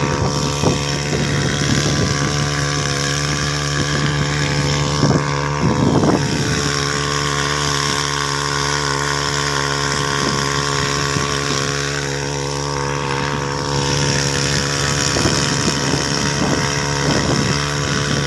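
Small second-hand 3 hp boat engine running steadily at an even speed on a test run, sounding normal.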